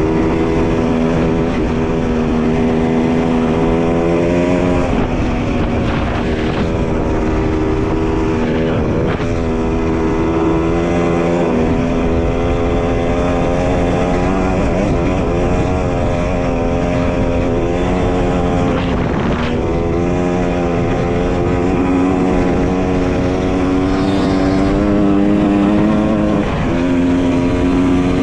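Dirt bike engine running under way, its pitch holding steady and then dropping or jumping several times as the rider changes gear or throttle, over a heavy rush of wind and road noise.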